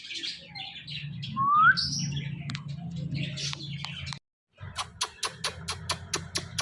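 Ring-necked parakeet chirping, with a short rising whistle about a second and a half in. After a brief dropout past the middle, a quick run of sharp clicks follows at about five a second, over a steady low hum.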